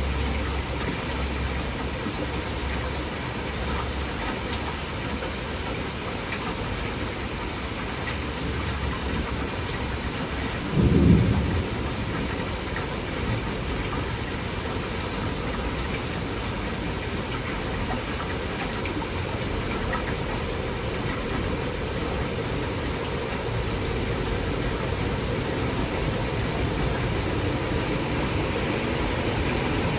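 Torrential rain falling steadily, with a short low rumble about eleven seconds in.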